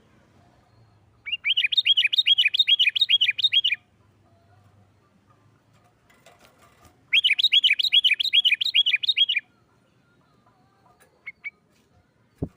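Sooty-headed bulbul giving its excited 'nggaruda' challenge call twice: each a fast run of repeated ringing notes, about five or six a second, lasting roughly two and a half seconds, with a few seconds between the runs. This agitated, fight-like call is the kind that provokes other bulbuls into calling.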